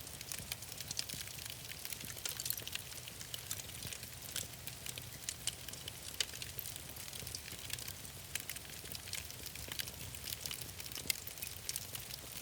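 Fire in a fireplace crackling, with many small sharp pops at irregular intervals over a low steady rumble.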